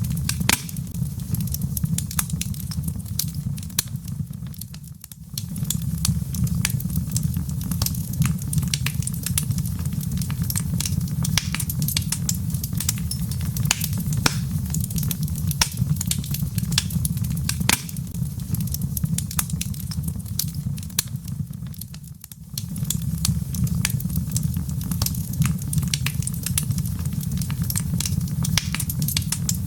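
Log fire burning in a fireplace: dense crackling and sharp pops of burning wood over a steady low rumble. The low rumble fades out briefly twice, about seventeen seconds apart.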